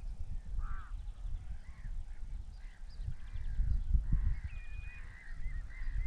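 Several birds calling and chirping, with one short held note about halfway through and a quick run of chirps near the end, over a low, uneven rumble.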